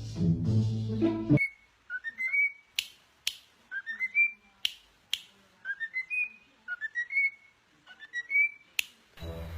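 A parrot whistling a short phrase again and again, each time climbing in quick steps to a held high note, with sharp clicks in between. Music plays at the start and comes back near the end.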